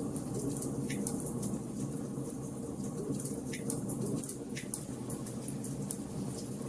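Wood fire burning in a fireplace: a steady low rumble of flames with a dense fine crackle and a few sharper pops of burning logs.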